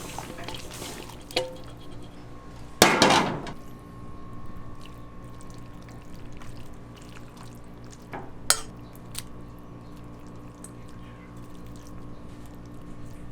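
Kitchen clatter: utensils and dishes knocking now and then, with a louder splash or pour of liquid about three seconds in and a sharp clink about eight seconds in, over a steady background hum.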